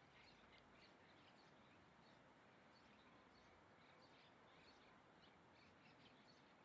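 Near silence with faint, short bird chirps scattered throughout over a steady hiss.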